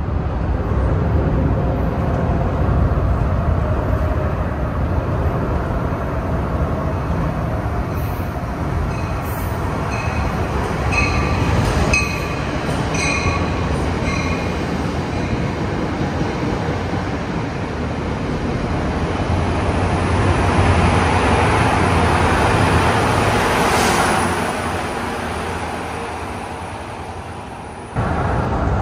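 Metro-North commuter train running along the platform, its wheels rumbling on the rails, with high squealing tones from about ten to fourteen seconds in. The noise swells about twenty seconds in, fades, and cuts off suddenly near the end.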